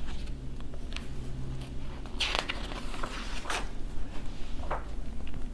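Paper pages of an old book being turned and handled: about four short rustles, over a low steady hum.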